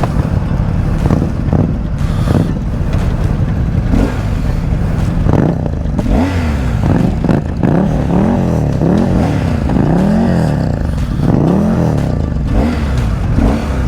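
Motorcycle engine running with a low rumble; about halfway through, its pitch rises and falls several times in a row as the throttle is opened and closed.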